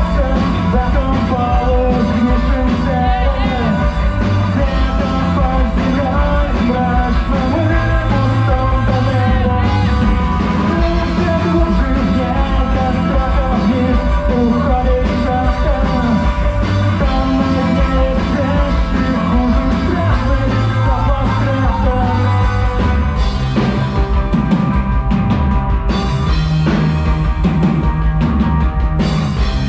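A rock band playing live, loud and steady, with a voice singing over the band.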